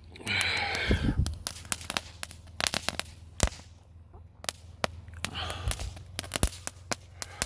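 Fireworks crackling and popping: many sharp, irregular cracks, with a short hiss just after the start and again around the middle.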